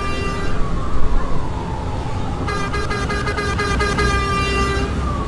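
R179 subway train sounding its horn twice as it comes into the station: a blast that ends about half a second in, then a longer one of about two seconds near the middle. Under the horn are the train's low rumble and an electric motor whine that glides down in pitch and back up.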